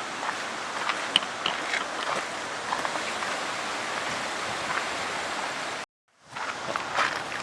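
Steady rushing outdoor noise with scattered light ticks, cutting out completely for a moment about six seconds in.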